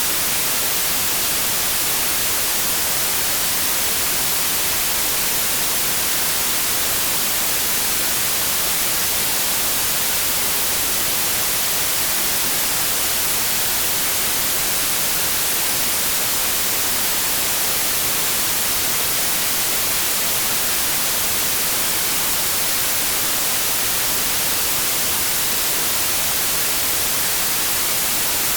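Steady, unchanging white noise: an even static hiss, brightest in the highs, with no variation.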